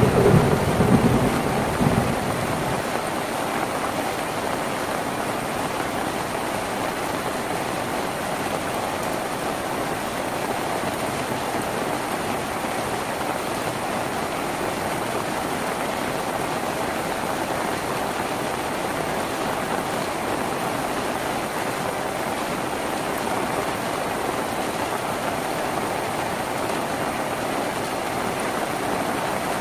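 Steady heavy rain falling on a tin roof. In the first two seconds the tail of a thunder rumble dies away.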